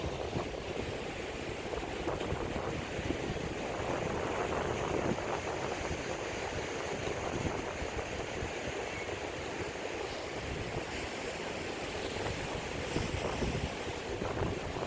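Sea surf washing in with a steady rush, while wind buffets the microphone in a gusty low rumble.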